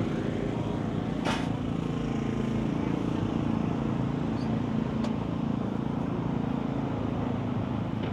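Vehicle engine running steadily at a low, even idle, with one short sharp tick about a second in.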